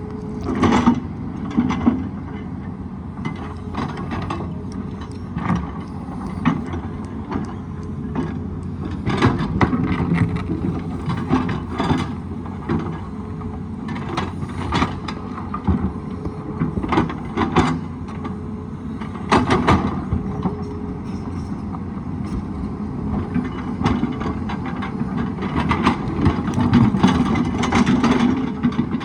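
Excavator at work: its diesel engine runs steadily under repeated short clanks and knocks.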